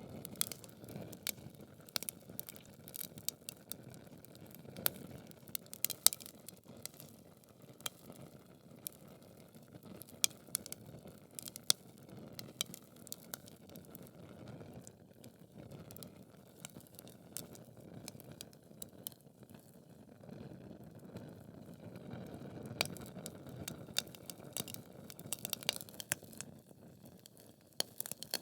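Wood fire burning in a fireplace: logs crackling with frequent irregular sharp pops and snaps over a low, steady rush of flame.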